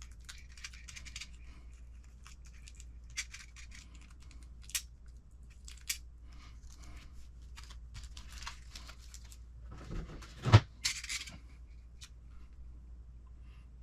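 Small kit parts being handled on a workbench: scattered light clicks and scratchy rustling, with one sharper knock about ten and a half seconds in.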